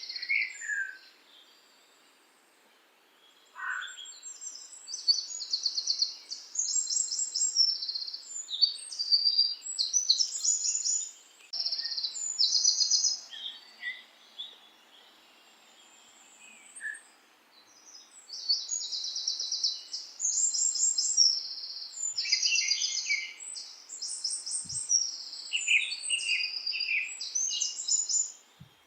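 Songbirds singing: repeated high, rapid trills and chirps, several overlapping at times, with short lulls between phrases.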